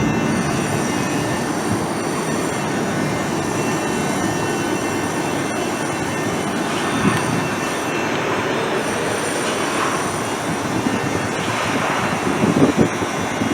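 A train running along the track, a steady rumble with thin high-pitched wheel tones. A few short knocks come near the end.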